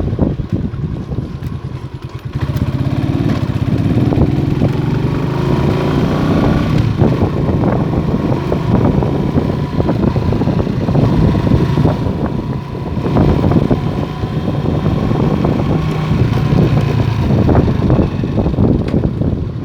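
Motorstar Star X 125 motorcycle engine running under way, its pitch rising as it accelerates a couple of seconds in, then dropping off briefly around the middle before picking up again.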